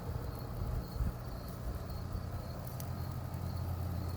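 Crickets chirping steadily, a faint high chirp repeating about twice a second, over a steady low hum.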